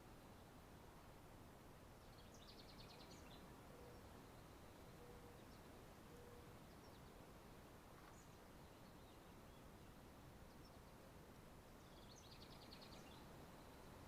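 Near silence with a steady faint hiss. A faint, high, rapid chirping trill is heard twice, about two and a half seconds in and again near the end, most likely a distant bird.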